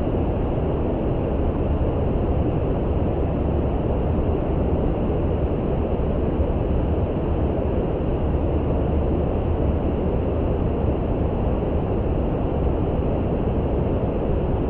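Steady, deep rushing noise with no events or changes, heavy in the low end and dull in the highs: brown noise.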